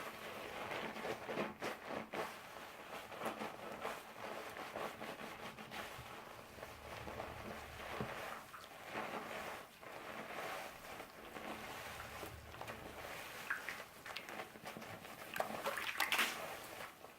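A doll's hair being washed by hand in water: wet squishing, splashing and sloshing with many small irregular clicks, a little louder near the end.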